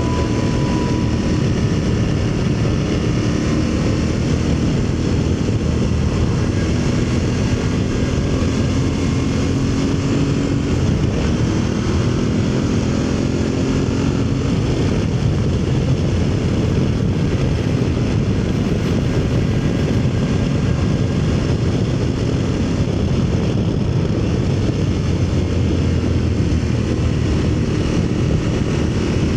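Aprilia Tuareg 660's parallel-twin engine running at road speed under a steady rush of wind noise, its pitch climbing gently a few times.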